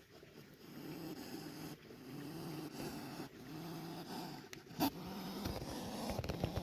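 Hedgehog snorting and growling over and over, a breathy puffing like a vacuum cleaner: its defensive huffing at being disturbed. A single sharp click about five seconds in.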